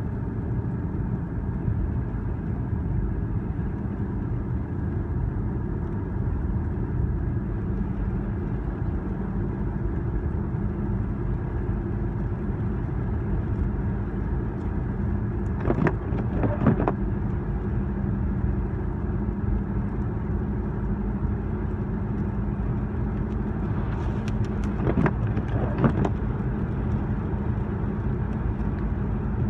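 Steady road and engine noise heard from inside a moving car, with a few short clicks about sixteen seconds in and a few more around twenty-five seconds.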